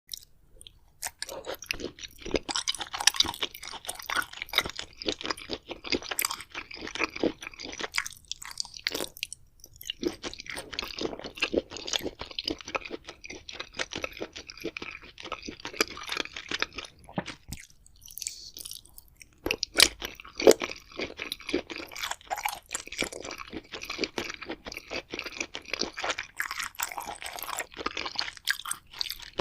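Close-miked chewing of crunchy food, a dense run of crackly crunches and mouth sounds. It pauses briefly about nine seconds in and again around eighteen seconds.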